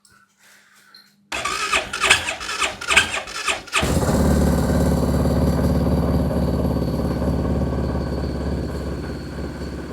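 A cold vehicle engine cranked over by its starter for about two and a half seconds, catching about four seconds in and settling into a steady idle to warm up in winter cold.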